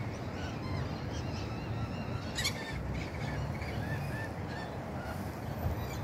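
Birds calling: a run of short, repeated calls over steady low background noise.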